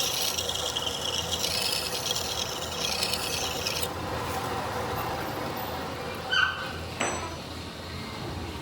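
Harsh rasping scrape on metal for about four seconds, then a brief high metallic ring about six seconds in and a sharp knock just after, over a steady workshop hum.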